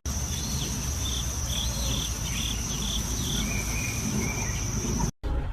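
Insects droning steadily at one high pitch, with a run of short chirps over the drone and a low rumble beneath. It cuts off suddenly near the end.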